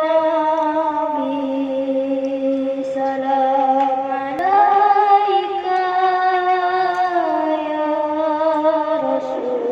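A man singing sholawat, Islamic devotional chant, solo in long held notes with a wavering ornament; his voice steps up in pitch about four and a half seconds in and comes back down in stages toward the end.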